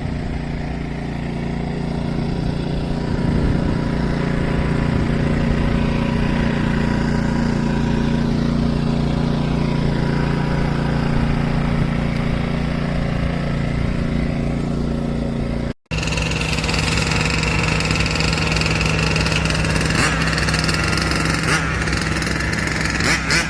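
WEN 56235i inverter generator's small engine running steadily. About sixteen seconds in the sound breaks off for an instant and comes back with a slightly different, higher-pitched whine on top.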